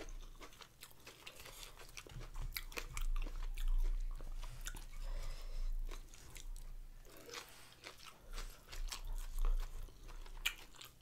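A person chewing crunchy food close to the microphone: spicy raw shrimp salad eaten with fresh lettuce. Irregular crisp crunches come one after another.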